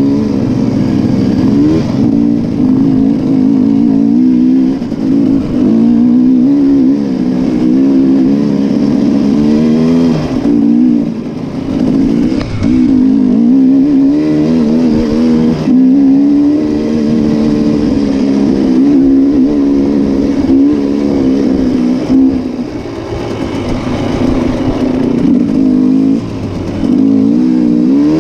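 Motocross bike engine running loud, its pitch rising and falling as the throttle is worked on and off, with brief drops in loudness now and then.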